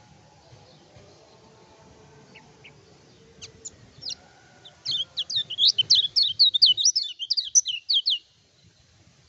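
Kecial kuning (lemon-bellied white-eye) singing: a few scattered high chirps, then a loud, fast run of downslurred high notes, about four or five a second, that breaks off suddenly near the end.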